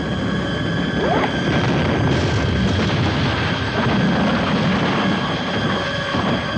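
A loud, continuous low rumble, with music and a few brief sliding tones over it.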